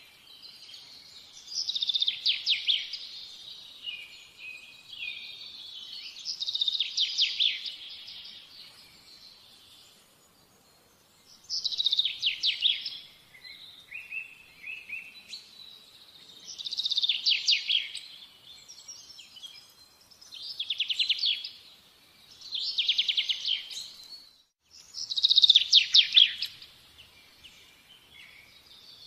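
A songbird singing short, high, rapidly trilled phrases, one every few seconds, with faint chirps between them.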